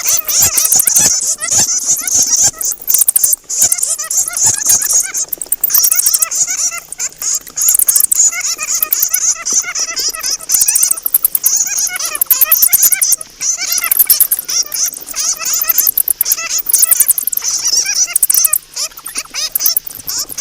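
Bats squeaking and chittering: a dense, rapid run of high-pitched squeaks and clicks with a few brief lulls.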